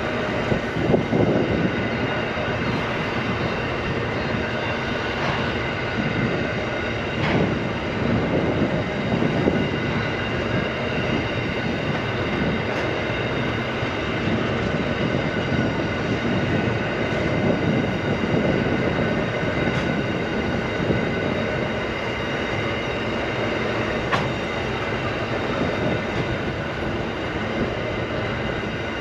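Narrow-gauge freight train wagons rolling along with a steady rumble, and several constant high-pitched tones over it.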